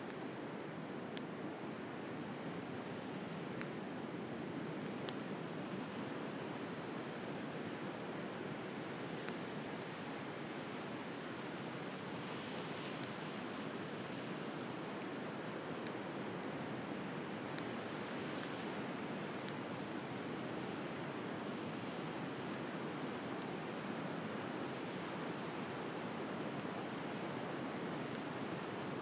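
Steady wash of sea surf, with scattered sharp crackles and pops from a wood bonfire.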